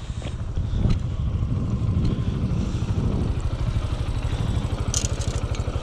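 Small farm-bike engine running steadily, a little louder from about a second in. A brief sharp clatter near the end.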